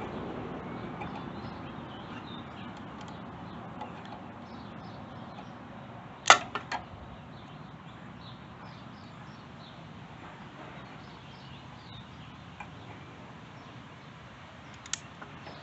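A sharp knock about six seconds in, with a softer one just after and another small click near the end, from hand-tool work on a lawn mower engine, over faint background noise.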